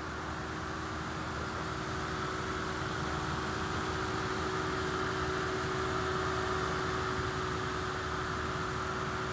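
GM 3900 V6 minivan engine idling steadily under the open hood: an even mechanical hum and whir with a constant whine.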